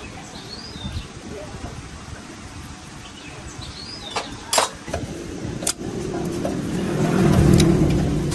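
A motor vehicle's engine grows louder over the last couple of seconds, peaking near the end. Earlier come a few sharp knocks and a couple of faint bird chirps.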